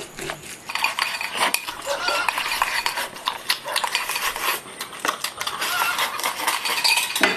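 Eating utensils clattering against dishes and bowls in quick, dense clinks, as during hurried eating.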